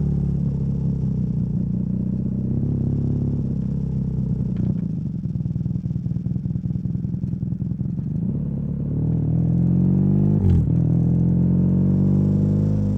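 BMW R nineT's boxer-twin engine running through a Competition Werkes slip-on exhaust while being ridden. The engine note eases off through the middle, then climbs again as the bike accelerates, briefly dipping with a click about ten and a half seconds in before rising once more.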